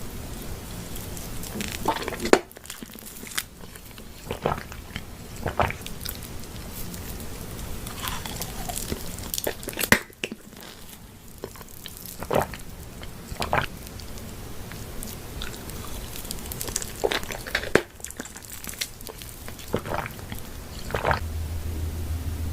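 Close-miked eating: a person biting and chewing, with irregular sharp crunches.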